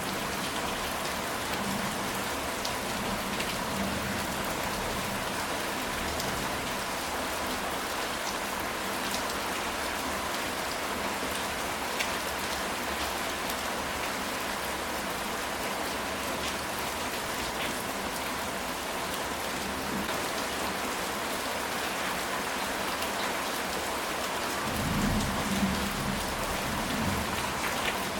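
Steady rain falling on a ceramic tile roof, an even hiss with scattered drop ticks. A low rumble of thunder swells up near the end.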